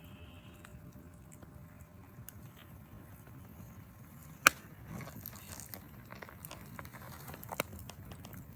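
Wood campfire crackling, with scattered sharp pops; the loudest pop comes about four and a half seconds in, and two more come close together near the end, over a low steady rumble.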